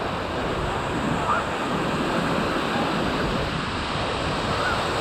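Steady rush of ocean surf with wind buffeting the microphone, and faint voices.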